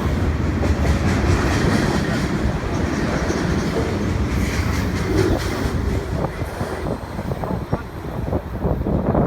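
CN train rolling past, a steady low rumble of wheels on rail. In the second half the wheels click repeatedly as they cross rail joints.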